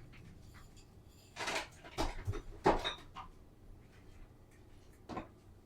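Kitchen clatter: a quick run of short knocks and clanks of things being handled, with one more knock near the end.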